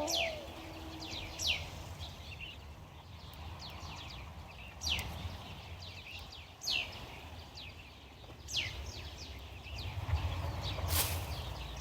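A bird calling repeatedly, each call a quick high whistle falling sharply in pitch, about six calls spaced one to three seconds apart, over a low steady rumble.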